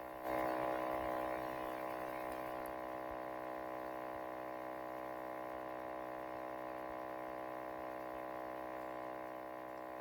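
Soft, sustained ambient drone: many steady tones held together as one chord. It swells a moment in, then eases back and holds level.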